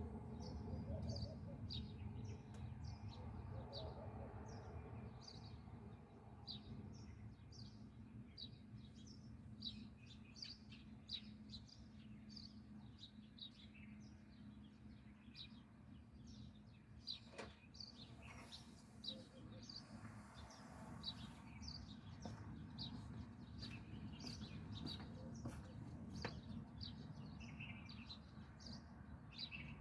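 Small birds chirping continuously, a steady run of short high chirps at about two a second, over a low steady rumble.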